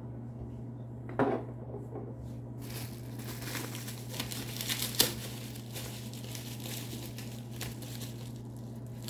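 Packaging crinkling and rustling as the next item is unwrapped: a brief rustle about a second in, then a longer run of crackly crinkling with one sharp click in the middle.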